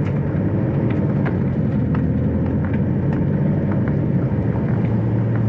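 Hyundai Solati van's engine running steadily under load while its drive wheels spin in deep snow, the van stuck and failing to find grip.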